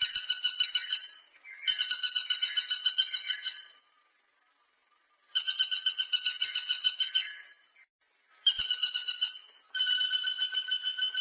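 Woodpecker giving a series of rapid rattling calls: five bursts of quick high notes, each lasting one to two and a half seconds and trailing off at the end, with short gaps between them.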